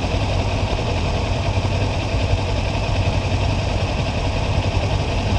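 Kawasaki Ninja 400's parallel-twin engine running at a steady, unchanging speed, heard from the rider's own bike.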